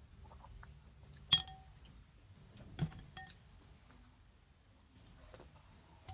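Spoon clinking against a soup bowl during eating: one sharp, ringing clink about a second in, then a few lighter clinks.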